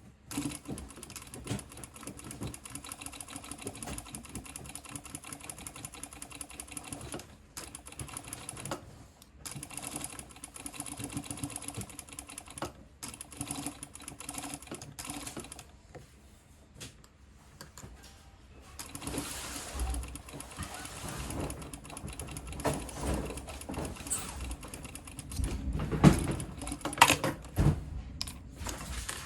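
Sewing machine stitching in runs that stop and start, as a fabric edge is fed through a binder attachment. Near the end come a few sharp knocks.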